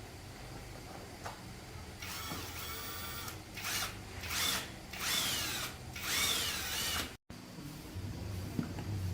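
A handheld power tool running: a steady run of about a second, then four short bursts with its speed rising and falling, cut off suddenly near the end.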